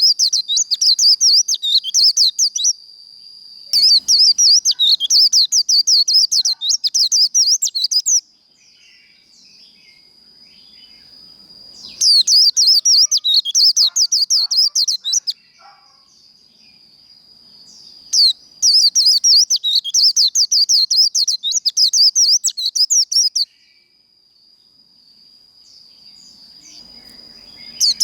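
White-eye (vành khuyên) singing its fast, jumbled, high twittering 'líu' song in four long bursts of a few seconds each. A thin, steady high tone holds on through the pauses between bursts.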